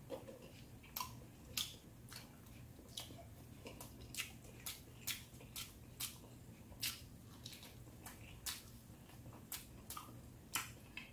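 Faint wet chewing and lip-smacking from a person eating, as short irregular clicks about one or two a second.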